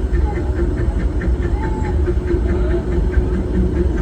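Narrow-gauge steam train heard from a riding passenger car: a steady rumble of the train under way, with an even ticking about four times a second and a few faint short squeals.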